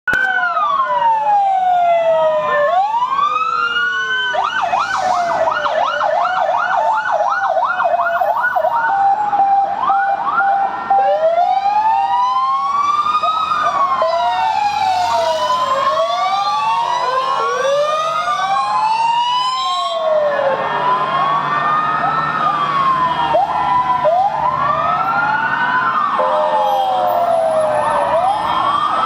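Sirens of several fire engines and ambulances sounding together: slow rising-and-falling wails overlapping out of step, with a rapid yelp for several seconds about four seconds in. About twenty seconds in the mix changes abruptly, and the wails carry on.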